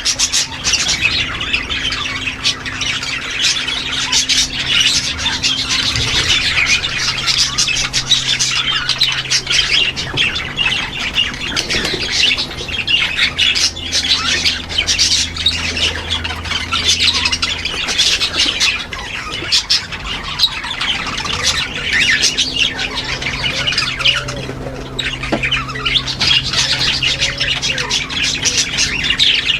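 A crowded aviary of parrots, lovebirds among them, squawking and chattering all at once in a dense, unbroken din. A faint steady low hum runs underneath.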